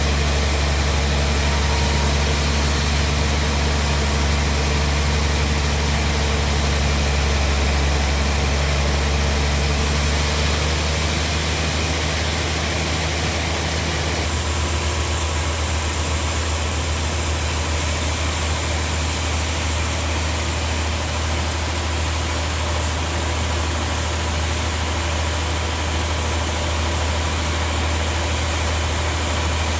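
Sawmill bandsaw machinery running with a steady, loud drone. Its deep hum eases slightly between about ten and fourteen seconds in.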